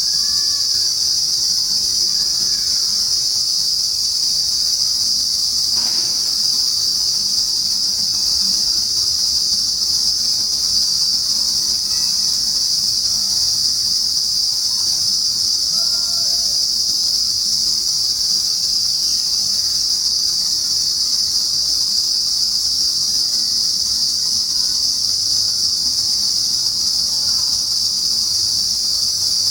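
Daytime insect chorus in trees, typical of cicadas: one loud, steady, high-pitched drone that never breaks. A few faint short chirps sound now and then beneath it.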